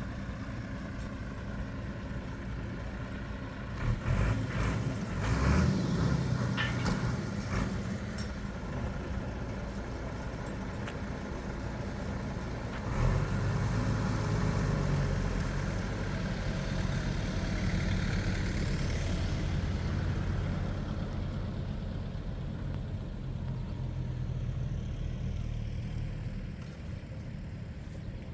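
Heavy lorry engine running steadily, rising in revs about four seconds in and again about thirteen seconds in as it works to move the ride's centre into position.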